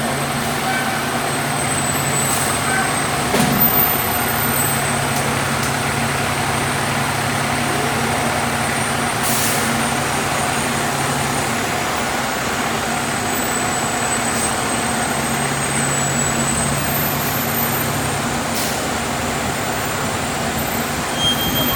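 A fire truck engine idling together with the exhaust extraction system's blower drawing exhaust through the hose, a loud, steady mechanical noise with a low hum. There is a brief knock about three and a half seconds in.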